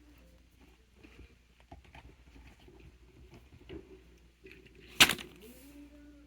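Fidget toys being handled, with scattered light taps and clicks and one sharp, loud snap about five seconds in.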